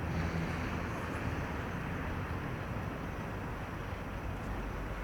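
Heavy vehicle engine running close by, a steady rumble with road noise and a low hum in the first second, cutting off abruptly at the end.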